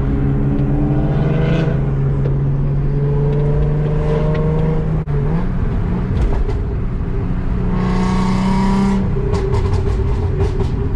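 Car engine accelerating hard: its pitch climbs, holds steady, then climbs again. There is a brief break about five seconds in, and the pitch drops near the end, as at a gear change or when easing off.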